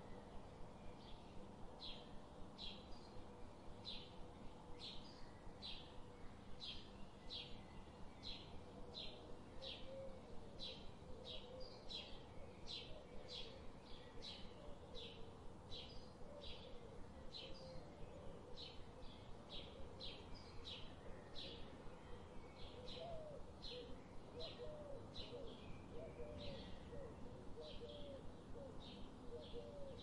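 Birdsong: a bird repeating a short high chirp about twice a second, steadily, while a lower, shorter call joins in from about ten seconds in and comes more often near the end.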